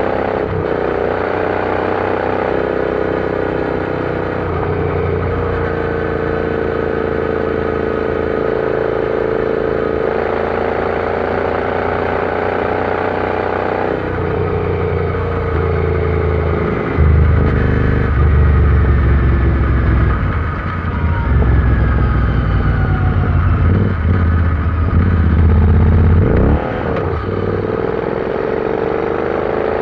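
Royal Enfield Interceptor 650 parallel-twin engine running under way on the road, heard from the bike. The engine note sags about halfway through. A louder, deeper rumble follows, and the note dips and climbs again near the end, as with a gear change.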